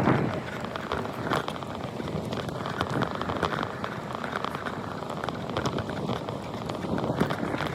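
Wind buffeting the microphone during a ride, a rough, uneven rushing noise full of crackles.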